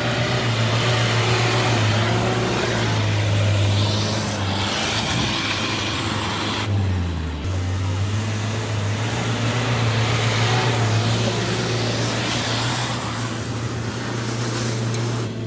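Small Suzuki 4x4's engine running at steady low revs as it crawls up a steep, rutted dirt climb, its pitch shifting slightly about seven seconds in.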